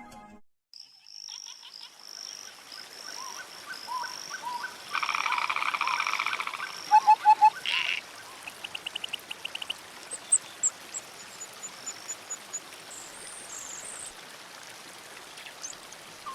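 Outdoor animal calls: a loud croaking trill about five seconds in and a few loud low calls just after. Around them come a high repeated whistle and later a run of quick high chirps from birds.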